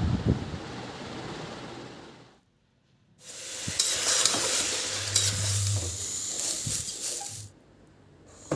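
Food sizzling as it fries in a hot pan while being stirred, with a few sharp clicks of the utensil; it starts about three seconds in after a short gap of silence and cuts off abruptly near the end. Before the gap, a softer steady noise fades out.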